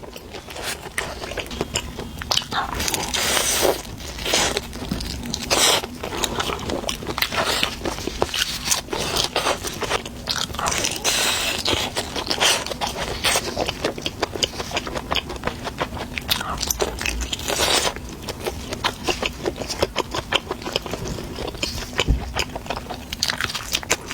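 Biting into and chewing an air-fried chicken leg roll, its crisp outer crust crunching with many sharp, irregular crackles.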